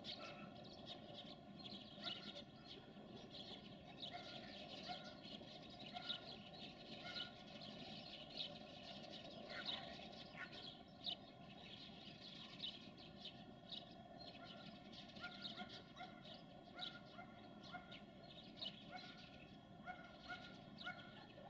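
Faint birds chirping, with many short scattered calls over a quiet rural background.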